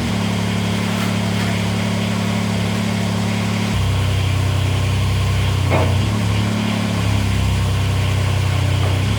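Ford TW10 tractor's six-cylinder diesel engine running steadily, its note dropping to a lower, deeper tone about four seconds in.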